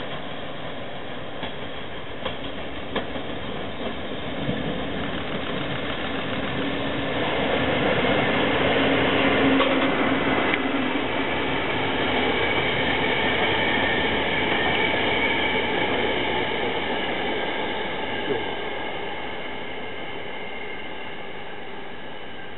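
EF65 electric locomotive hauling unpowered Tokyo Metro 2000-series subway cars past on the rails: a steady rolling rumble that swells to its loudest about ten seconds in and then slowly eases. A few sharp clicks come in the first few seconds, and steady high tones sit over the rumble in the second half.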